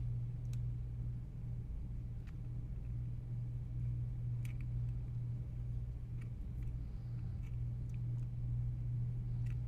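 A steady low hum with a few faint, scattered clicks of small parts being handled on a work surface.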